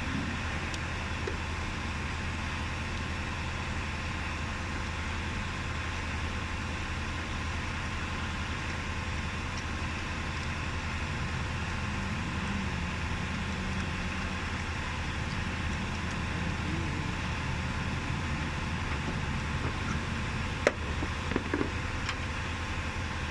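A vehicle engine idling steadily, with a sharp click and a couple of light knocks near the end.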